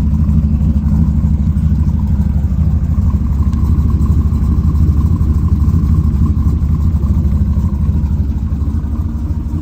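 Cammed twin-turbo LS V8 idling steadily while warming up after a below-freezing cold start, with the two wastegates leaking a little, as the owner notes.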